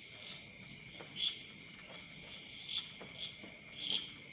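Crickets chirping: a steady high pulsing trill with louder chirps repeating about every half second, over faint crackles from a campfire.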